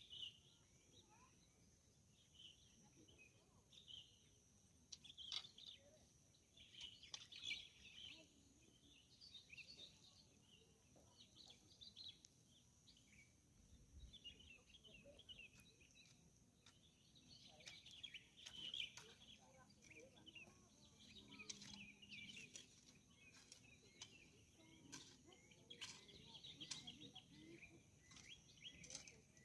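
Wild songbirds chirping and singing in many short, overlapping phrases, faint and scattered throughout, over a steady high-pitched drone.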